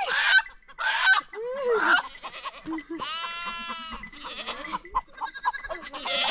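Goats bleating repeatedly, a string of short overlapping bleats with one longer, drawn-out bleat about three seconds in.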